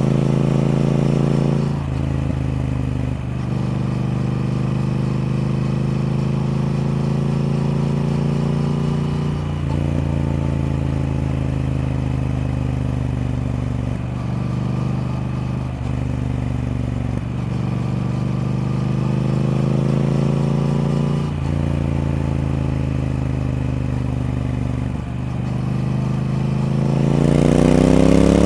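Triumph Speed Twin's parallel-twin engine running under way. Its note sags gradually over several seconds at a time with brief breaks in between, then rises sharply and gets louder as it revs up near the end.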